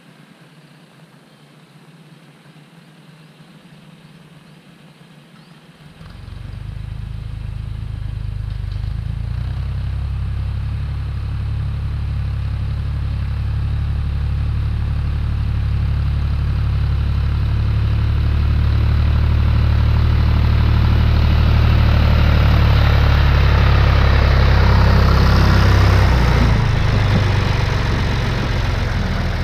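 Tractor diesel engine running: faint at first, then much louder and fuller from about six seconds in, building to its loudest a few seconds before the end and then easing slightly.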